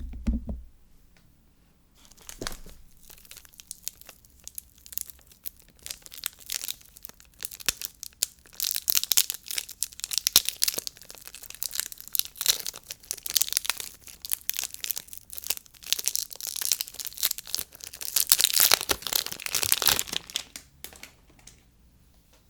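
Soap packaging being unwrapped by hand: a soft thump at the start, then the wrapper crinkling and tearing in a dense crackling rustle that grows louder after a few seconds and stops about two seconds before the end.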